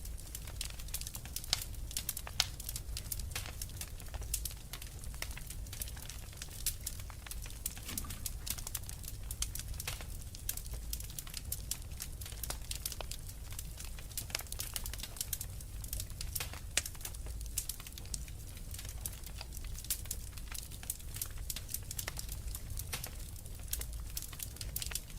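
Fireplace fire crackling: a dense, irregular run of small sharp pops and snaps over a steady low rumble.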